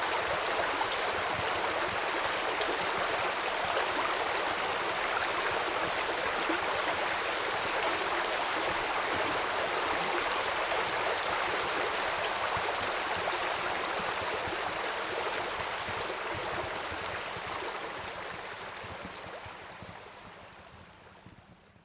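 A river flowing and rushing, with a short high chirp repeating about twice a second for several seconds. The whole soundscape fades out over the last several seconds.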